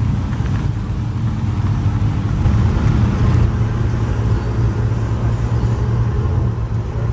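A car engine idling steadily close by, a low even hum.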